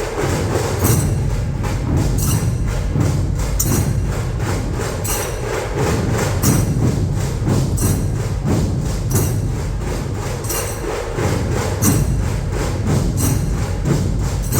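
Dhol-tasha ensemble drumming loudly: barrel dhol drums pound a steady rhythm while tasha drums rattle rapid strokes over them. Sharp high accents repeat about three times every two seconds.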